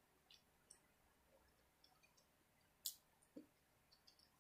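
Near silence with a few faint mouth clicks from chewing a carrot fry: two tiny ones in the first second, a sharper click about three seconds in, then a soft low thump.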